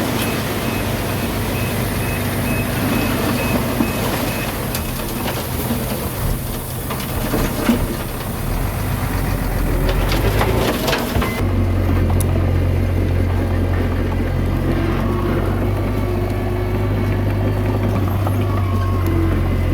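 Diesel engine of heavy earthmoving equipment running steadily, with a reversing alarm beeping for the first four or five seconds and a few metallic clanks midway. About eleven seconds in, the engine sound changes abruptly to a deeper, steadier drone.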